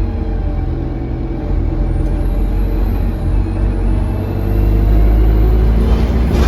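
Alexander Dennis Enviro200 bus's diesel engine running under way, heard from inside, with a faint high turbo whistle that rises and falls from about two seconds in. The uploader puts the whistle down to a turbo leak.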